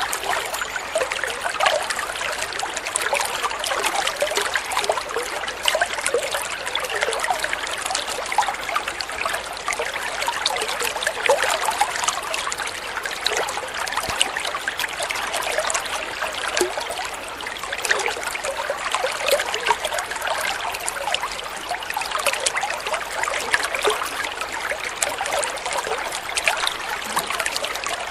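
Water flowing and trickling steadily, a continuous babble of many small splashes and gurgles.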